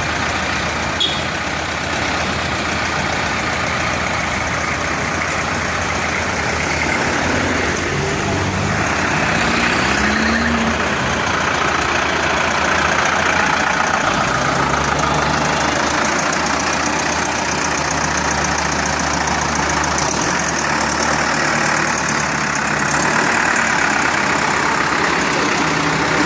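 SAME Explorer Especial 95 tractor's diesel engine running at idle, its note changing about halfway through.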